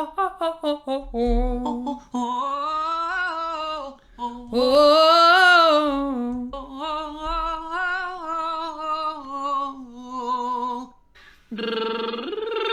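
A singer's vocal warm-up exercise. It starts with short, quick notes, then moves to scale-like phrases that rise and fall with vibrato. After a short break near the end, a new held note begins and leaps upward.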